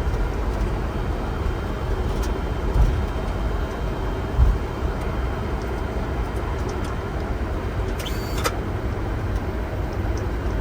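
Steady cockpit noise of a Boeing 747-400 rolling on the ground after landing: engine and airflow rumble, with two brief low thumps about three and four and a half seconds in. A short high hiss comes near the end.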